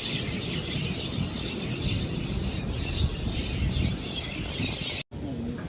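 Outdoor ambience with a steady wash of many small birds chirping, which stops abruptly about five seconds in.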